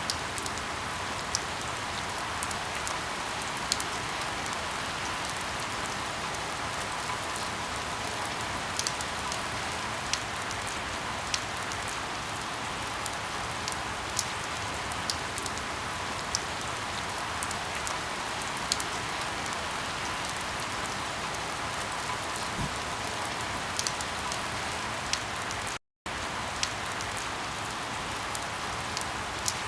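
Steady rain with scattered sharp pops and crackles from burning firewood. The sound cuts out for a split second near the end.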